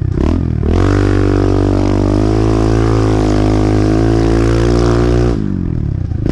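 Pit bike engine under throttle: a couple of quick blips, then a steady high-revving pull lasting about four seconds. Near the end it drops off sharply as the throttle is shut.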